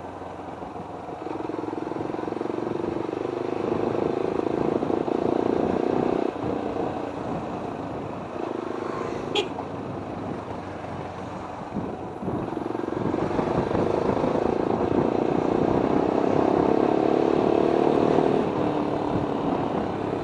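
Motorcycle with an Akrapovic exhaust running under way, its engine note swelling as it pulls, easing off for a few seconds midway, then pulling again, with wind noise on the microphone. A single sharp click about nine seconds in.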